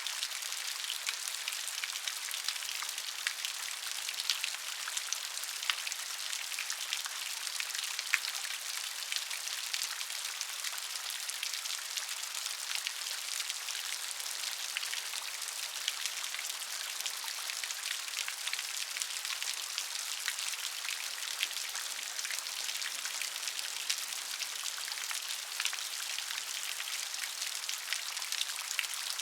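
Steady rain, with many small sharp drop impacts spattering over an even hiss.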